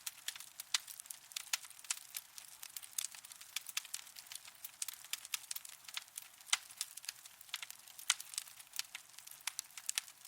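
Wood fire in a fireplace crackling: irregular sharp pops and snaps, several a second, over a faint hiss.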